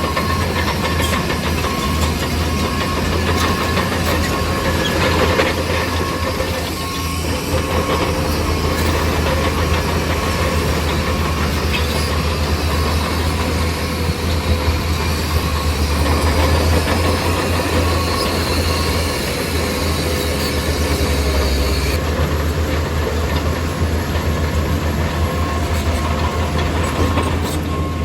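Bulldozer's diesel engine running steadily under load, with a reversing alarm beeping on and off in several stretches.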